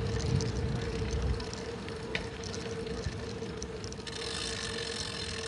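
Riding noise from a bicycle rolling along a road: wind buffeting the phone's microphone and tyre noise, with a steady hum and a couple of sharp clicks or rattles.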